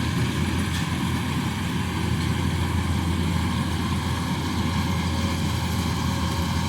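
Combine harvester engine running steadily with a constant low hum and no change in pace.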